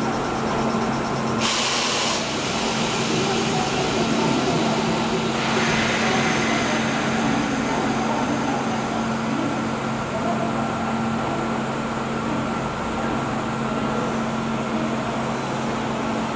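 Kintetsu 30000 series Vista EX electric train with a steady hum and a few held tones, broken by two hisses of released compressed air: a short one about a second and a half in, and a longer one about five seconds in that fades away slowly.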